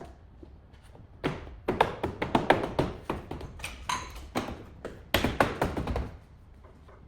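A quick run of sharp taps and knocks on hard objects, starting about a second in and stopping about a second before the end.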